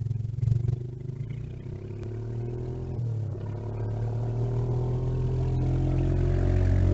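Small mini bike engine running and drawing closer, growing steadily louder with its pitch rising slightly.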